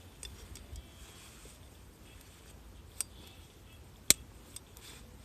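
Campfire burning, the wood giving a few sharp isolated pops, the loudest two about three and four seconds in.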